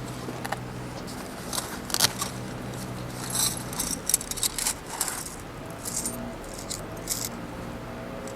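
Light metal clinking and rattling: a scattering of sharp clinks, densest in the middle, over a steady low hum.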